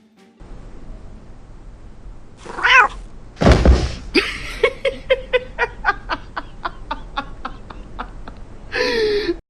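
A cat yowling: a wavering call about two and a half seconds in, a loud thump about a second later, then a run of quick short sounds, about three or four a second, and a second wavering yowl near the end.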